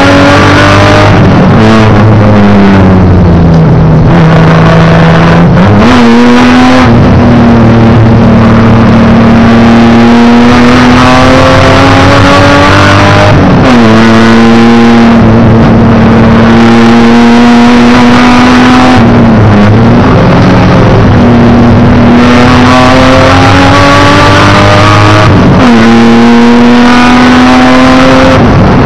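Race car engine heard from inside the roll-caged cockpit, running hard and loud. Its pitch falls in the first few seconds, then climbs steadily under acceleration and drops sharply at each gear change, several times over.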